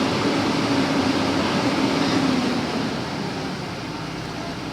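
Backhoe's diesel engine running steadily with a low hum. It eases off about two and a half seconds in.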